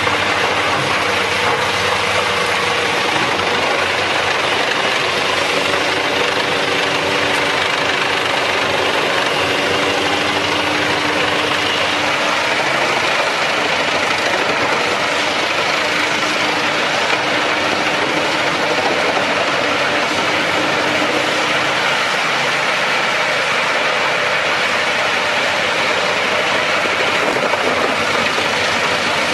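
Wood chipper running steadily under power, its engine noise mixed with a broad rushing din.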